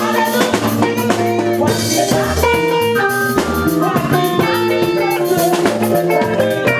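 Live band playing an upbeat worship song: drum kit with kick and rimshot hits, bass guitar and guitar, with keyboard chords.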